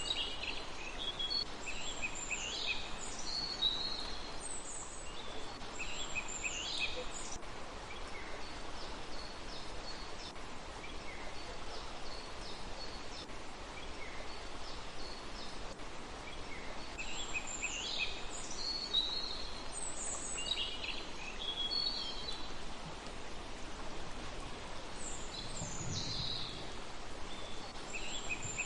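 Small birds calling in scattered bursts of short, high, quickly falling chirps, with quiet gaps between the bursts, over a steady outdoor hiss.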